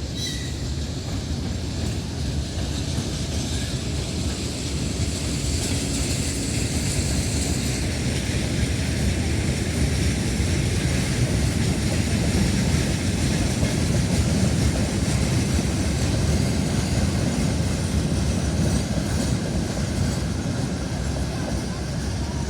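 Freight train hauled by an M62K diesel locomotive rolling past, a continuous heavy rumble of engine and wheels on the rails that grows louder toward the middle and eases slightly near the end.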